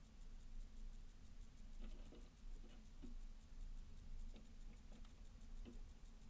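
Faint, irregular taps and scratches of small birds pecking and handling seeds at a feeder, over a low steady hum.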